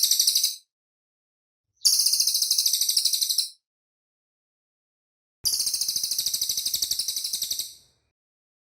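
Cililin bird song: very rapid, high-pitched trills of tightly packed notes, in bursts of about two seconds separated by silent gaps. One burst ends just after the start, then two more follow, the last one longer.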